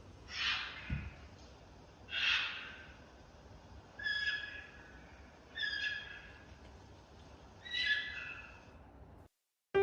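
Ruddy kingfisher calling: five rolling, falling calls, one every second and a half or so, over faint forest background. A short low thump comes about a second in.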